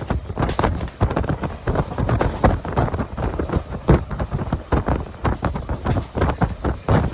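Express passenger train running at speed, its coach rattling and the wheels rolling on the rails, with strong wind buffeting the microphone in uneven gusts.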